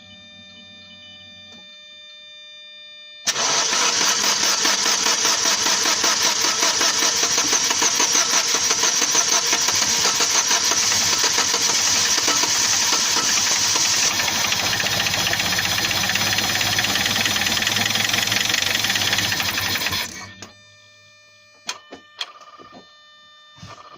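Chevrolet Lacetti engine starting abruptly about three seconds in and running with a fast, even knock for about seventeen seconds before being switched off; the owner does not know what causes the knock. A faint steady whine comes before the start, and a few clicks follow the shutdown.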